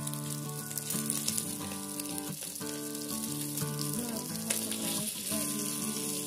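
Fish pieces sizzling as they shallow-fry in hot oil in a small pan, a steady hiss. Background music with sustained notes plays over it.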